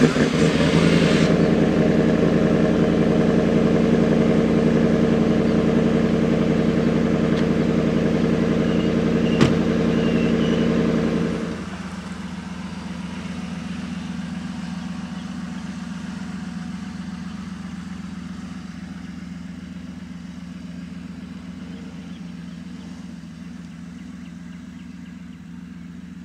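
A vehicle engine, just started, idling loudly and steadily, with one sharp click about nine seconds in. Then a quieter engine hum that slowly fades as the vehicle drives off.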